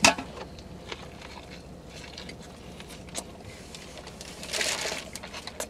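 Eating sounds: a bite into a chicken Caesar wrap at the start, then chewing with small crackles and mouth clicks. A short rustling hiss comes about four and a half seconds in.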